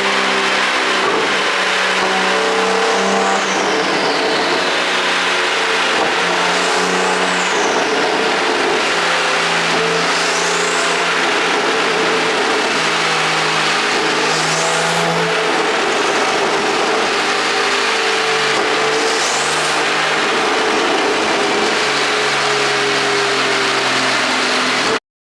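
Porsche 911 Turbo S twin-turbo flat-six engine running and revving under an ECU tune, its pitch shifting up and down in steps, with a faint high whistle that rises or falls every few seconds. The sound cuts off suddenly near the end.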